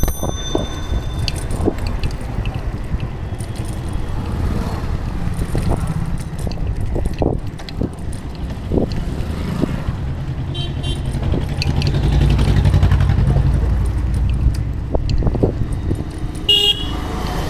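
A motor vehicle's engine runs steadily, swelling louder for a couple of seconds about two-thirds of the way through. Short high-pitched tones sound at the start and again near the end.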